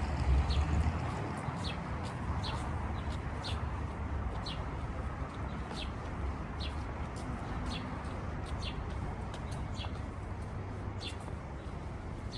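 A small bird calling over and over with short, high, falling chirps, roughly one a second, over the steady low rumble of city traffic.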